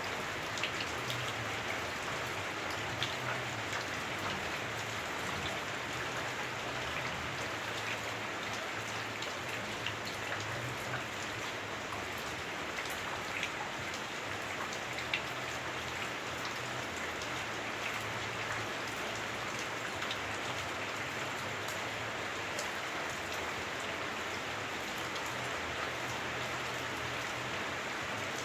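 Heavy rain on a house roof, heard from inside: a steady, dense hiss with scattered sharp drop ticks.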